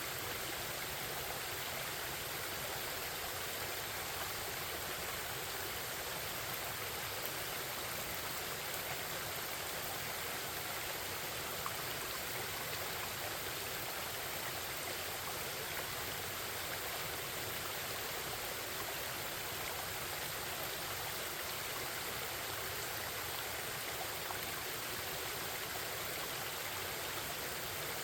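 Forest stream babbling: a steady, even rush of flowing water.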